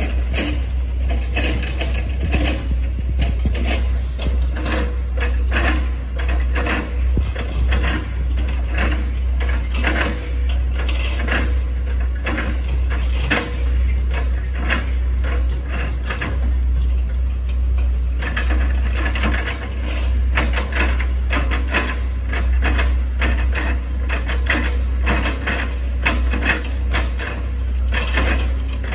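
Hitachi ZX110 MF excavator's diesel engine running with a steady low drone, under a dense run of irregular clicks and cracks as it works.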